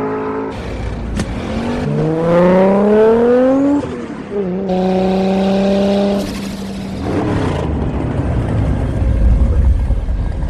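Car engines revving hard under acceleration, pitch climbing through a gear and breaking about 4 s in. The engine then holds a steady note before giving way to a low rumble.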